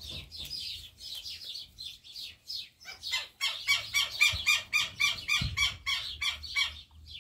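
Birds chirping, turning into a fast, steady run of repeated short chirps from about three seconds in until near the end.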